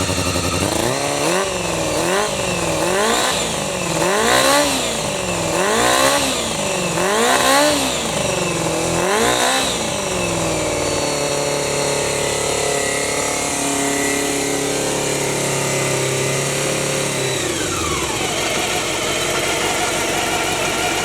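Honda CBR250F MC14 inline-four motorcycle engine breathing through a DIC aluminium aftermarket muffler. It is blipped up and down about seven times in quick succession, then drops back to a steady idle for the last ten seconds or so.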